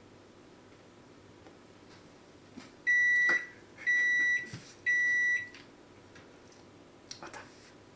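Electronic beeper sounding three steady, high-pitched beeps about a second apart, followed by a few faint clicks near the end.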